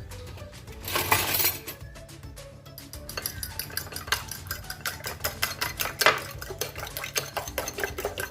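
Eggs being beaten in a bowl, the utensil clinking rapidly and evenly against the bowl's side, several strokes a second. About a second in there is a brief loud scraping rush before the beating settles in.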